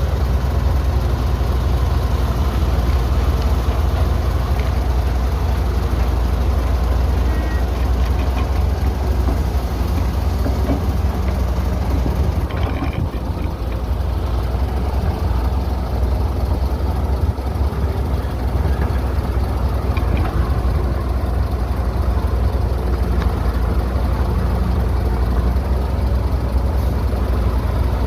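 Heavy diesel engine of earth-moving machinery running steadily with a deep, low rumble.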